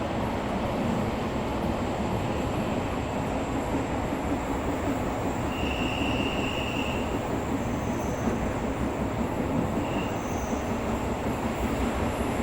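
Tokyo Metro 17000 series subway train running at speed, heard from inside the carriage: steady rumble of wheels and motors, with a brief high squeal about six seconds in.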